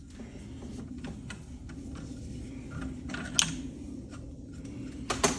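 Light clicks and knocks of ceiling-fan parts being handled, over a steady low hum. There is a sharper click about three seconds in and a quick cluster of clicks near the end.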